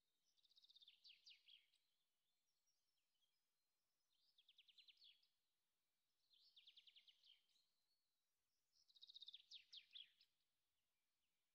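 Faint bird song: four short phrases of rapid high chirps, each about a second and a half long, a few seconds apart, the last one the loudest.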